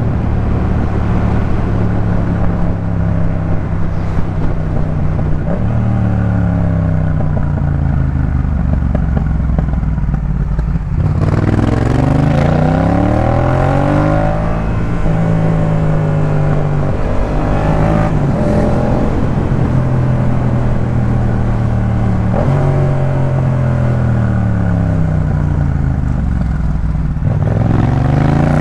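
2018 Yamaha MT-07's parallel-twin engine breathing through a Jeskap K4 full exhaust, heard from the rider's seat while riding. It holds low, fairly steady revs at first. From about ten seconds in it climbs through several runs of rising revs, each cut short by a gear change.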